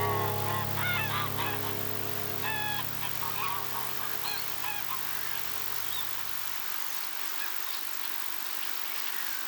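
Geese honking in a series of short calls over the last fading notes of background music. The calls stop about halfway through, leaving a faint outdoor hiss.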